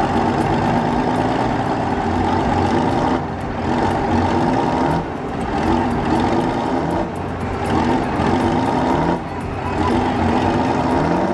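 Detroit Diesel engine in a pulling tractor, running loud and hard, wound up under load. The drone holds steady but dips briefly four times, about every two seconds.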